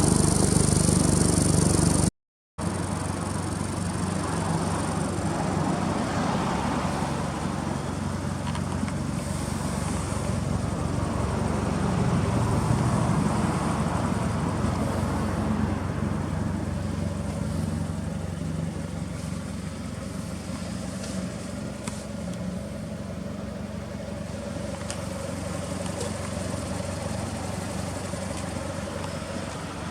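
Toyota Celica ST202's 3S-GE four-cylinder engine running steadily at idle through an aftermarket muffler. The sound drops out completely for a moment about two seconds in.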